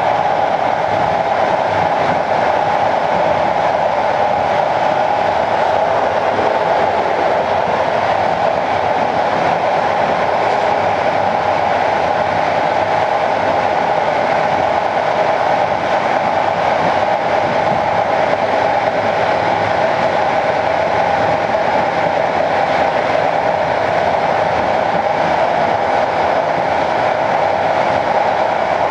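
Passenger train running along the track: a steady, unbroken running noise of the moving train that holds its level throughout.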